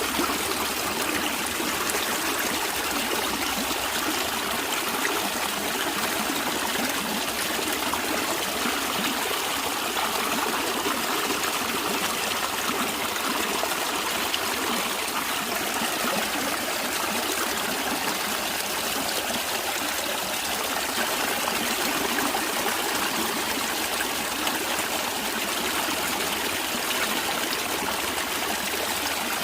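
A natural stream of water running steadily, a continuous rushing trickle with no break or change.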